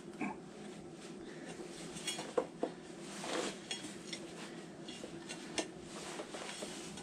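Light metallic clinks and taps of metal parts or hand tools being handled, with a few sharper ringing clinks scattered through.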